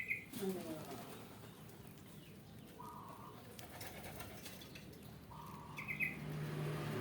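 Pigeons flapping their wings, with a few short, even-pitched chirps. A low steady hum comes in about two-thirds of the way through.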